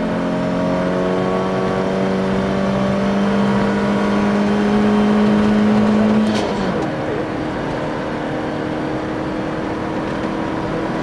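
Volvo 240 rally car's engine heard from inside the cabin, pulling in one gear with its pitch rising slowly for about six seconds. The note then drops abruptly with a short sharp click and settles lower and steadier, over a constant rush of gravel road noise.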